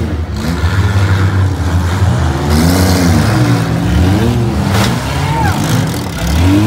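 Six-cylinder demolition derby car engines revving hard, their pitch rising and falling as the cars drive and ram, with a sharp crash about five seconds in.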